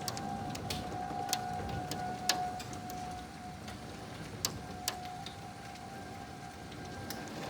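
Tornado warning siren sounding a steady held tone that swells and fades in strength, over steady rain. A few sharp clicks stand out, about a second and a half apart at most.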